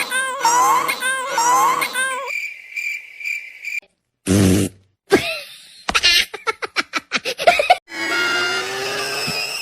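A rapid string of edited cartoon sound effects: quick repeating rising chirps, a held high tone, a short loud burst after a brief silence, a run of quick clicks, then a snatch of music.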